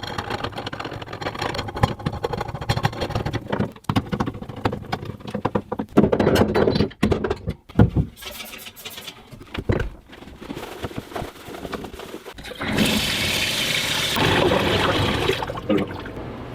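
Clicks and knocks from handling the new bathtub drain and its stopper, then water rushing in the tub for about three seconds near the end as the drain stopper is tested.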